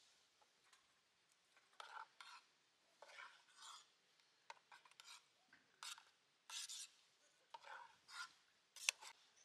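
Faint, irregular scrapes and clicks of utensils working in a pot or pan, like stirring and tapping, with one sharper click near the end.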